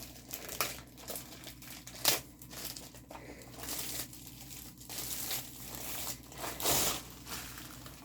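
Small plastic baggies crinkling as they are handled, in irregular rustling bursts with a sharp click about two seconds in and a louder crinkle near the end.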